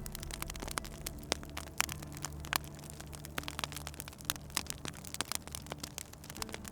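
Wood fire crackling in a fireplace: dense, irregular snaps and pops over a low steady rumble.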